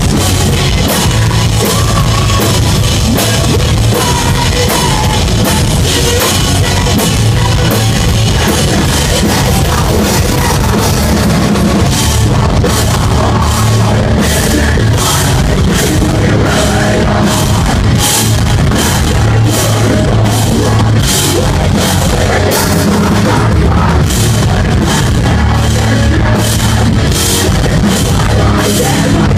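A post-hardcore band playing live, heavily distorted guitars and pounding drums with dense cymbal hits, with some vocals, recorded loud and saturated from the crowd.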